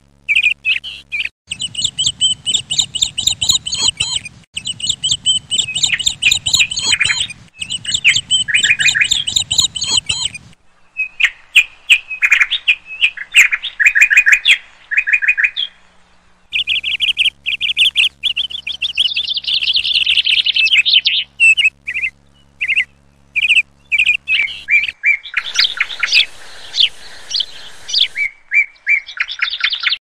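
Small birds chirping and calling in quick series of short, high notes. The mix changes abruptly several times.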